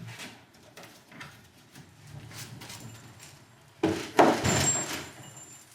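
A 14-foot kayak rolled up onto a car roof on homemade wheels: a few light knocks, then about four seconds in a loud rolling scrape lasting about a second and a half, with a faint high squeak.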